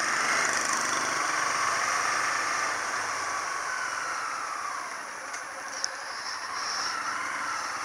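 Motorcycle engine running while being ridden, with a steady rush of noise; the engine note swells and eases slightly.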